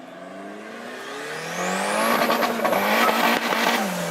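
Turbocharged car accelerating hard past: the engine's pitch climbs steadily with a high turbo whistle rising alongside it, dips briefly about two-thirds through, then both fall away as the car passes.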